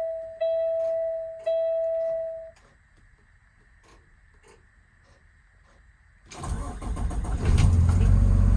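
Cab warning chime dinging about once a second, stopping after a few chimes, then a few faint clicks. About six seconds in, the Kenworth T270's PACCAR PX7 six-cylinder diesel cranks and starts, settling into a steady idle.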